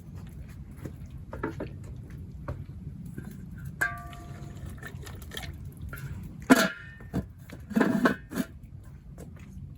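Handling of cookware at a wood-fired cooking pot: scattered light clicks and knocks over a steady low background, with one ringing metallic clink about four seconds in and a sharp knock about six and a half seconds in.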